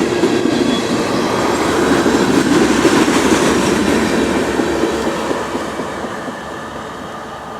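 Train cars rolling past on the rails with a steady rumble and rattle, loudest about three seconds in, then fading over the last few seconds as the train moves away.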